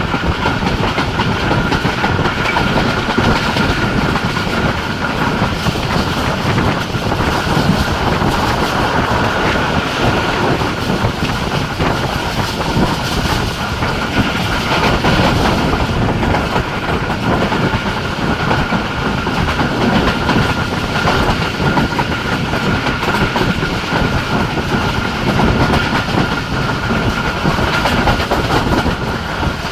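Express passenger train running at speed: a steady rumble of wheels on rail with clickety-clack from the track, and a thin steady high tone above it.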